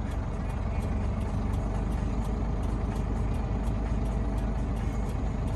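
Heavy truck's diesel engine running steadily under load, heard from inside the cab while it pulls a stuck truck out. A faint, regular ticking sits over the low engine hum.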